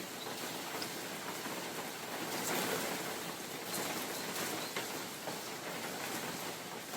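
Steady rain falling on a mountain forest in spring, with scattered drops ticking close by and a gust of wind swelling through the trees about two and a half seconds in.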